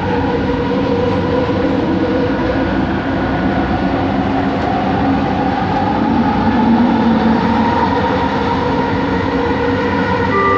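Bombardier Innovia ART 200 train running, heard from inside the car: a steady rumble with a tonal whine from its linear induction motors, growing slightly louder near the end.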